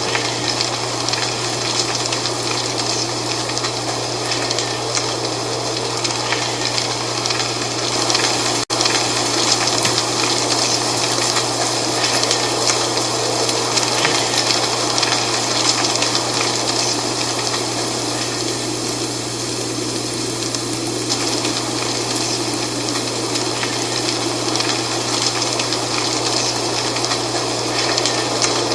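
Dry fall leaves rustling in a steady wind: a continuous, even rush with a constant low hum underneath and a momentary dropout about nine seconds in.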